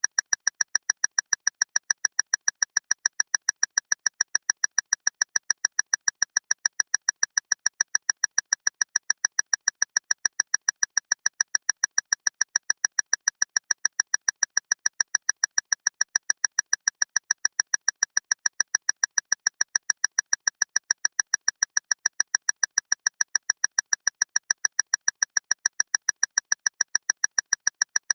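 Loud clock ticking fast and perfectly evenly, about four sharp, high-pitched ticks a second.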